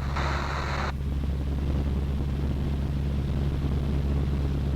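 Cessna 152's Lycoming O-235 four-cylinder piston engine and propeller droning steadily in cruise in the cabin. A short burst of hiss lasts under a second near the start.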